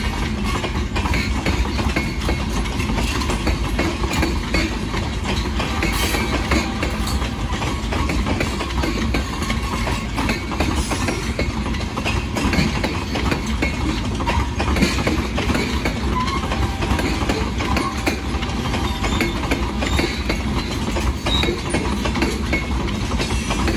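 A long freight train of open-top hopper cars rolling past: a steady rumble of the wheels on the rails with a continual clatter of clicks over the rail joints.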